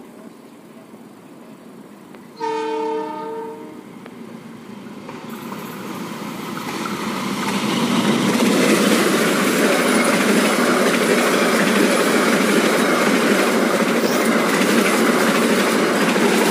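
Argo Bromo Anggrek express passenger train, hauled by a diesel locomotive. Its horn sounds once for about a second and a half. Then the train's noise grows as it approaches and becomes a loud, steady rush of wheels on rail as the locomotive and coaches pass fast over the level crossing.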